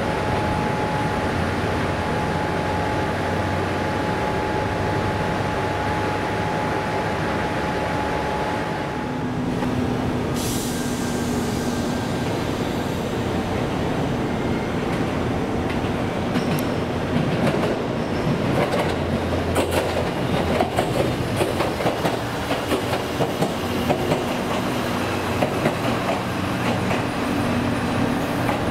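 JR diesel train at a station: a steady engine hum with a held whine that stops about a third of the way in. In the second half the train's wheels clack over rail joints and points in a string of sharp clicks.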